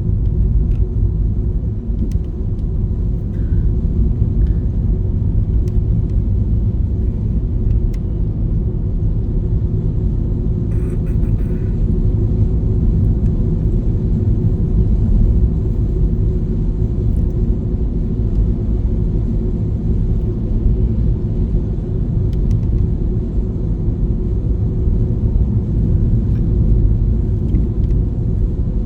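Steady low rumble of a car driving, heard inside the cabin: engine and tyre noise from the road.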